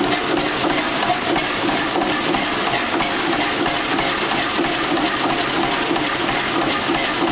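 Ruston Hornsby 2YHR 15 hp twin-cylinder horizontal stationary diesel engine running steadily at an even speed.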